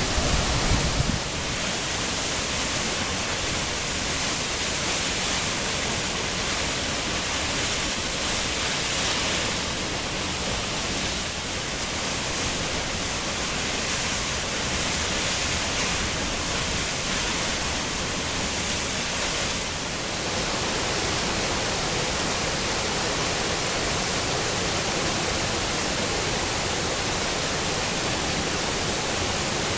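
Waterfall: the steady rush of a large fall of water, a dense even hiss that shifts slightly in level about twenty seconds in.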